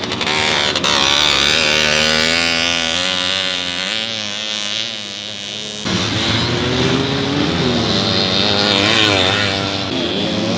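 Vintage two-stroke race motorcycle engines revving hard, the pitch rising and falling as riders accelerate and ease off through the bends. The sound changes abruptly about six seconds in.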